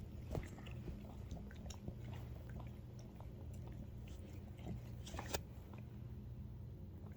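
A dog gnawing and chewing on an old bone stuffed with bits of steak: irregular clicks and scrapes of teeth on bone, with two louder cracks, one about half a second in and one about five seconds in.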